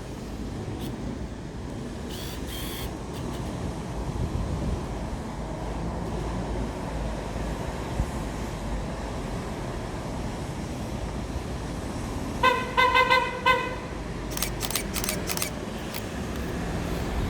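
Steady low rumble of a Scania K230UB OmniLink bus engine heard from inside the bus. About twelve seconds in, a rapid pulsed beeping sounds for about a second, followed by a few sharp clicks.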